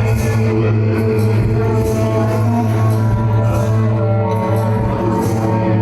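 Techno from a live DJ mix: a steady, loud bass line with held synth tones and crisp high percussion hits about twice a second.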